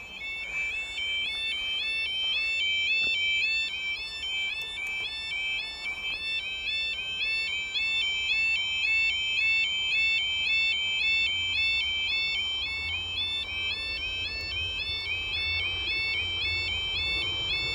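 Level crossing warning alarms sounding a continuous two-tone yodel, the pitch stepping up and down about twice a second. A low rumble builds underneath in the second half.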